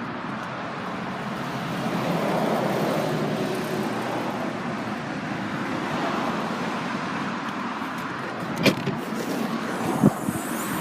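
Road traffic noise, swelling as a vehicle passes, with two sharp knocks about a second and a half apart near the end.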